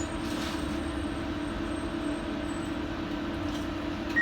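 Steady hum and low rumble of a Docklands Light Railway train's onboard equipment, with one constant mid-pitched tone, as the train stands with its doors shut before pulling away.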